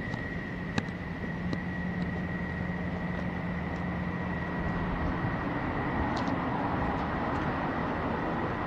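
BMW 3 Series coupe engine idling steadily, with a constant low hum and a thin high tone, and a few faint clicks.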